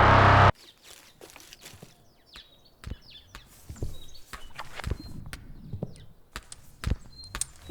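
Loud music that cuts off suddenly about half a second in, then a quiet stretch of scattered knocks and low thuds at an uneven pace, with a few faint, short, high chirps.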